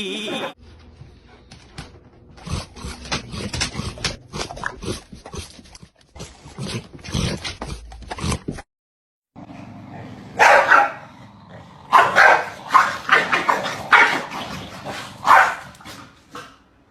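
Dogs barking and yelping in two separate stretches with a short break between them. The second stretch holds a run of louder barks.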